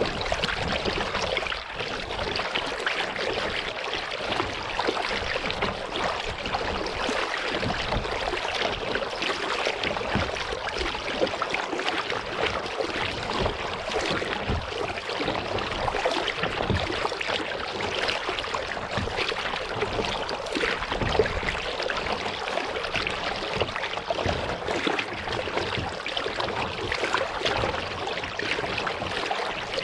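Water splashing and trickling close around a kayak as it is paddled: paddle drips and water lapping at the hull, a steady crackly wash.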